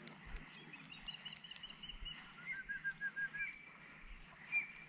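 A small bird singing: a quick run of repeated high notes, then a second run of repeated notes pitched lower, followed by a couple of single notes.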